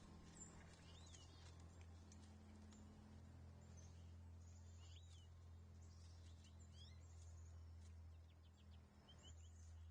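Faint outdoor birdsong: short chirps that rise and fall, repeated every second or two, with a few thin high notes, over a low steady hum.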